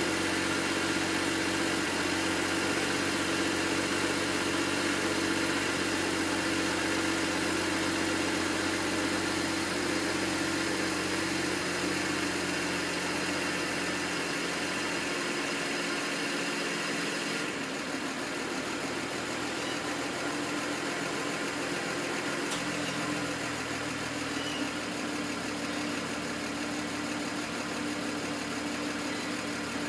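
BMW N54 twin-turbo inline-six idling steadily with a misfire at idle. The engine gets a little quieter a bit past the middle.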